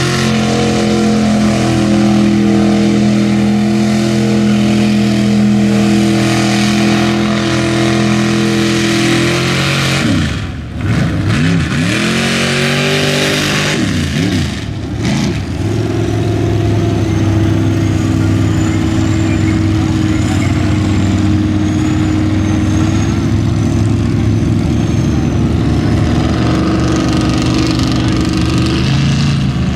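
Mud bog truck's engine held at high revs, its pitch swooping up and down several times around the middle before settling back to a steady high-rev run.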